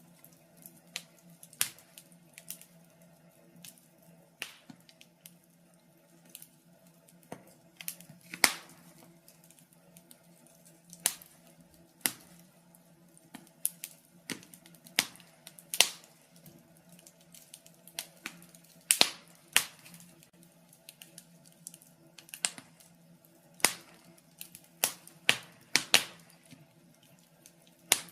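Wood fire in a fireplace crackling, with sharp pops coming at irregular intervals over a faint steady hum.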